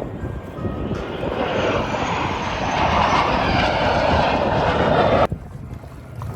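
Airplane engine noise growing steadily louder as an aircraft approaches, then cut off abruptly about five seconds in.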